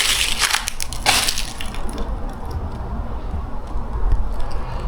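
Crunching and cracking of debris underfoot, with sharp cracks at the start and again about a second in, then a softer crackle.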